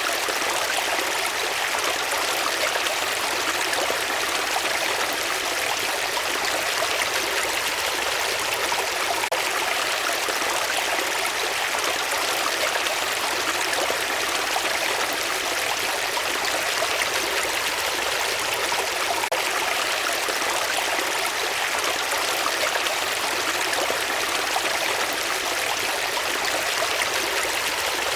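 Flowing water, running steadily and evenly without breaks or changes.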